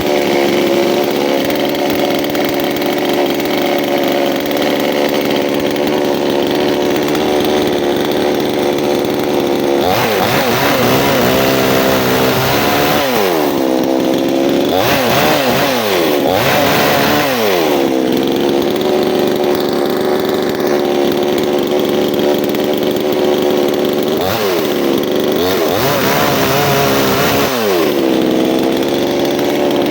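Two-stroke chainsaw running at high revs, its engine speed dipping and recovering several times as the chain bogs down under load in the wood, in a group near the middle and again near the end.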